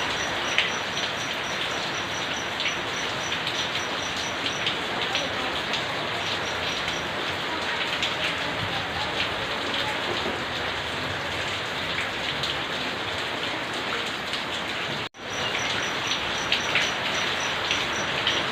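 Steady rain falling and pattering on surfaces, with individual drops striking close by. The sound drops out for an instant about fifteen seconds in.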